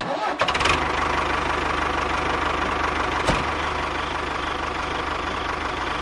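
Tractor engine starting and then running steadily, with a rapid, even low pulsing from its firing strokes. A single brief click about three seconds in.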